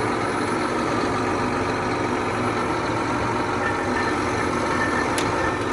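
John Deere 8245R tractor's six-cylinder diesel engine running steadily while the tractor creeps along slowly; it is running without coolant, a fan blade having broken off and punctured the radiator.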